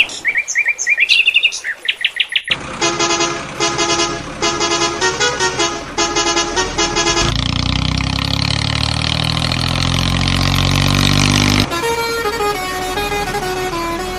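A string of cartoon-style vehicle sound effects. First come high chirping tones, then a repeating multi-note horn pattern. An engine-like sound then rises steadily in pitch for about four seconds and stops abruptly, and a stepping tune of horn tones follows.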